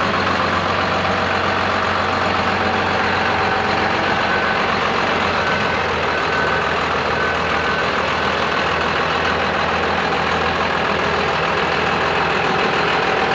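Cummins diesel engine of a 1993 Freightliner FL70 fuel truck idling steadily, with a faint high tone coming and going in the middle.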